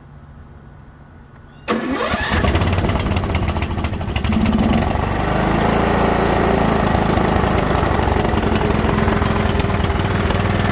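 Troy-Bilt Pony riding mower engine started on full choke: about two seconds in it cranks briefly and catches, then runs steadily and loudly.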